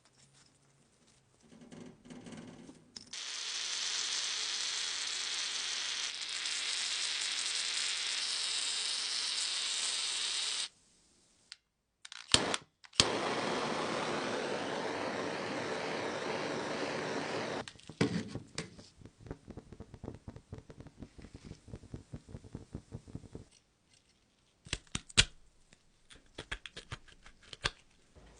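A small power tool runs steadily for several seconds, cuts off abruptly, and runs again after two sharp clicks, on the metal of a Zippo lighter being restored. This is followed by many quick, irregular clicks and taps.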